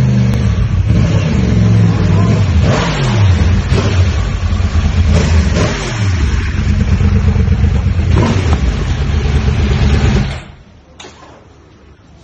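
Sport motorcycle engine running and revving as the bike is ridden, its pitch rising and falling with the throttle; the sound cuts off about ten seconds in.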